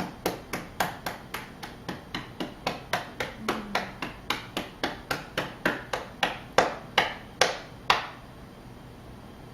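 Fingertips tapping rhythmically on the body over the liver, about three taps a second, stopping about eight seconds in.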